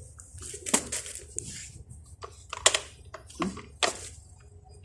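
A handful of sharp clicks and crackles, about five over a few seconds, the loudest a little under three seconds in, over a low steady hum.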